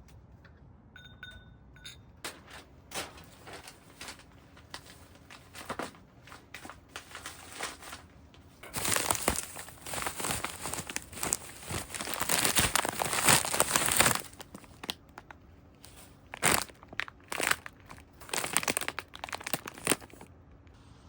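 Crinkling and crumpling handling noise, a dense run of small crackles and rustles. It grows loudest and busiest for about five seconds in the middle.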